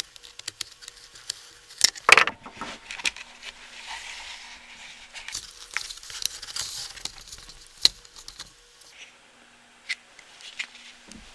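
Handling noise: a run of irregular clicks and taps with crinkling, as of the plastic fan or its parts being handled. The loudest knocks come about two seconds in and near eight seconds in.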